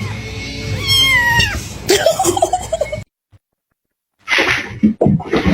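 A cat meowing, with one long, drawn-out meow about a second in that drops in pitch at its end. The sound cuts off suddenly about three seconds in, and a different, noisy sound starts near the end.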